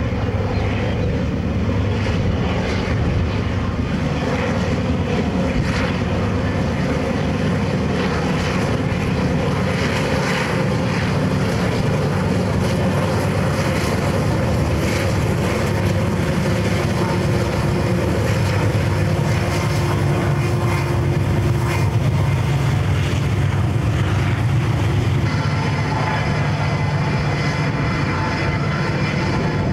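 Several diesel-electric locomotives at the head of a loaded coal train pass close by with their engines running steadily. Toward the end the loaded coal cars are rolling past on the rails.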